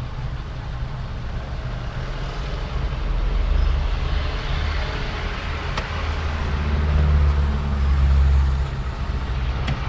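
Small manual car's engine and road noise heard from inside the cabin while driving slowly in traffic. The low engine drone swells louder twice, about three seconds in and again from about seven to eight and a half seconds.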